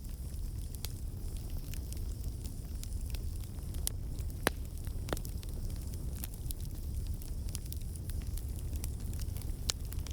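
Campfire burning: a steady low rumble of the flames with scattered sharp crackles and pops from the burning wood, one louder pop about halfway through.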